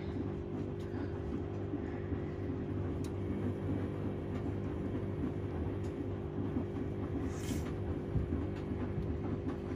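Washing machine running a down-pillow wash, likely in its cool-down stage. The drum motor hums steadily over a low churning rumble from the tumbling load, with a brief hiss about seven and a half seconds in.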